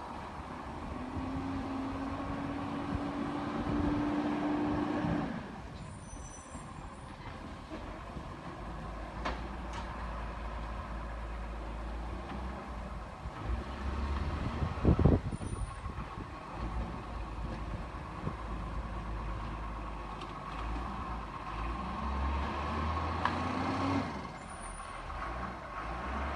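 Garbage truck running, with a rising mechanical whine twice, once near the start and again near the end, typical of the hydraulic lifting arm working. A single sharp, loud burst comes about halfway through.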